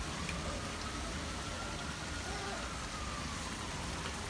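Steady hiss of rain falling, with a faint distant siren wailing slowly up and down in pitch behind it.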